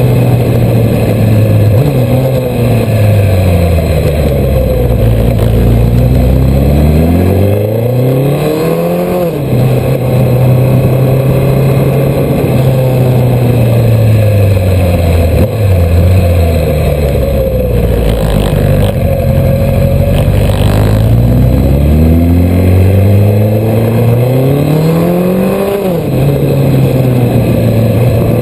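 Suzuki Hayabusa's inline-four engine during a motorcycle ride: twice the engine note sinks over several seconds as the bike slows, then climbs steadily under acceleration and drops suddenly at an upshift, with steady cruising in between.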